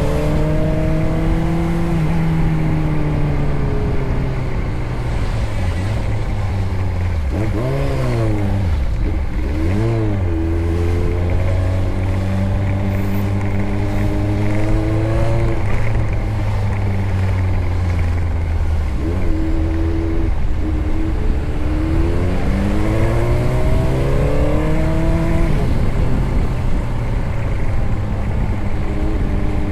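Motorcycle engine running under way, its pitch climbing and then stepping down again several times as it is throttled and shifted, with two quick revs about eight and ten seconds in. Steady wind noise underneath.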